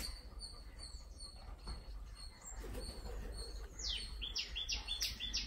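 A small bird chirping: a string of short high chirps, then from about four seconds in a faster, louder run of quick downward-sweeping chirps.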